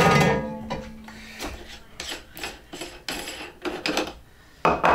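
Metal parts of an electric meat grinder being handled and taken apart. A loud clang rings on for about a second, then come scraping and clinking as the grinder head is worked loose, and another clatter near the end.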